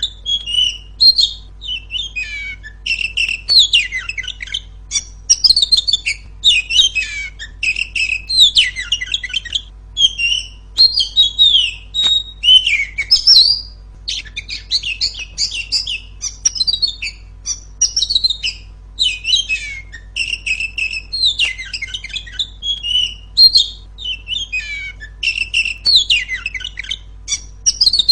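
Female oriental magpie-robin (kacer) singing loudly, in quick phrases of varied chirps, whistles and harsher notes with short pauses between them.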